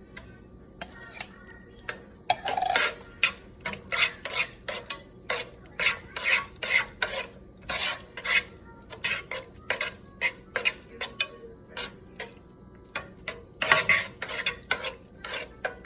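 A spoon stirring chicken in a thick sauce of canned cream of mushroom and cream of celery soup, scraping and knocking against the pot about two to three times a second, starting about two seconds in.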